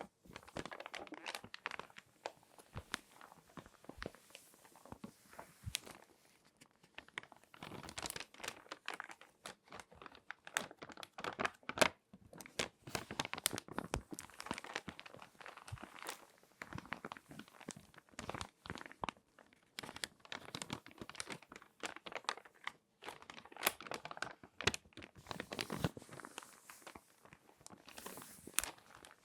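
Glossy magazine pages being folded and crinkled close to the microphone: irregular crackling and rustling paper with sharp snaps as the creases are pressed.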